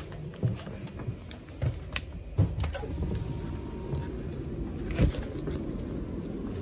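Running noise heard inside a passenger train carriage: a steady low rumble, broken by a few sharp knocks, the loudest about five seconds in.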